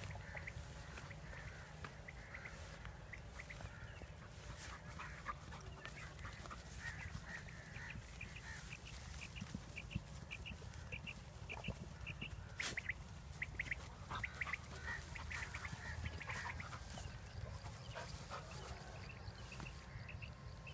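Birds calling in many short, repeated high notes, scattered through the whole stretch, over a steady low rumble.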